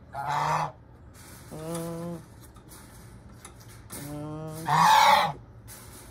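Domestic goose honking: four flat, nasal calls of about half a second each, spread over several seconds, the last the loudest.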